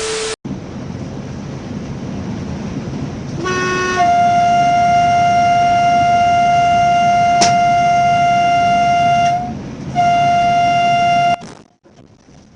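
Train horn sounding a long blast of about five seconds, with a brief lower note just before it. After a short break comes a second, shorter blast. Both sound over a steady low rumble of a running engine.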